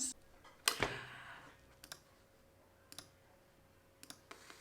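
A few sharp, isolated clicks, the first and loudest under a second in, the rest faint and about a second apart, over quiet room tone.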